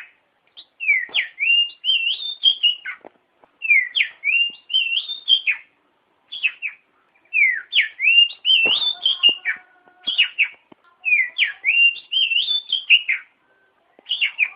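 Oriental magpie-robin (kacer) singing, repeating the same short whistled phrase over and over with brief pauses between phrases, about one every two and a half seconds.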